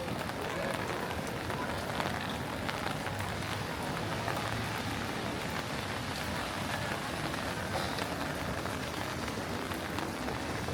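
Steady light rain falling on pavement and street surfaces, an even hiss with many small drop taps.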